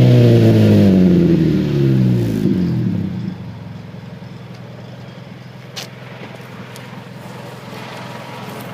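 Mitsubishi Lancer X exhaust, with an Invidia Titan nozzle cat-back, tuned 4-2-1 header, flame arrestor and MG-Race resonator: revs falling off after a blip, then settling about three seconds in into a steady idle. There is a single short click near the middle.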